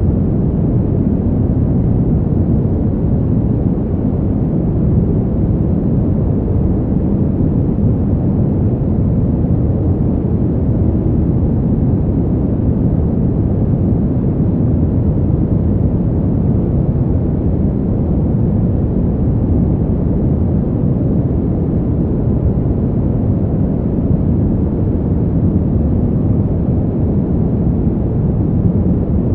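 Winter wind as a deep, even rush of noise, heavy in the low end and without gusts or swells.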